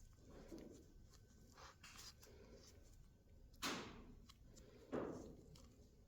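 Near silence with small parts being handled on a workbench: two short, sharp knocks about a second and a half apart past the middle, and faint rustling before them.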